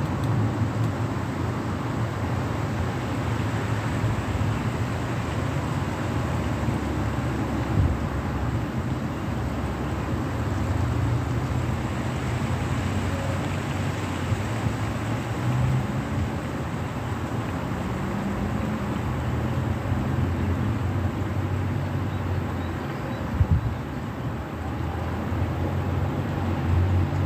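Steady expressway traffic in light rain: a continuous hiss of tyres on the wet road over a low engine hum that swells and fades as vehicles pass.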